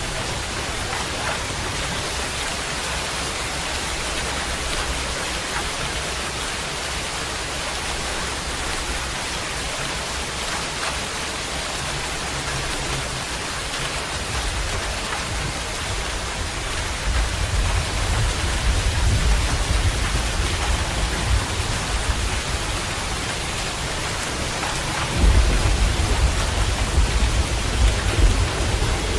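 Steady heavy rain hissing, with low rolling rumbles of thunder building in the second half and a louder rumble setting in abruptly near the end.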